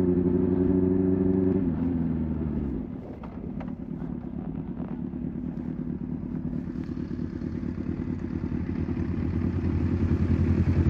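Motorcycle engine running at steady revs, then dropping in pitch about two seconds in as the revs fall. It settles into a low, quieter pulsing note that grows steadily louder toward the end, with a few light clicks.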